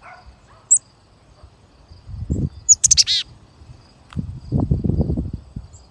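Black-capped chickadee calling: a short high chip, then a loud buzzy call about three seconds in. Low thuds and rustles sound close to the microphone, over a faint steady insect trill.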